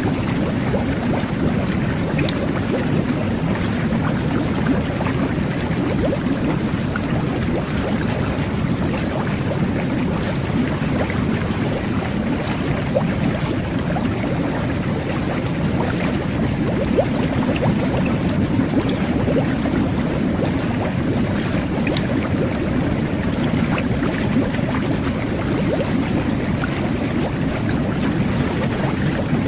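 Jet bath (whirlpool bubble bath) running, its jets churning the water: a steady low rush of water and air bubbles with scattered small pops.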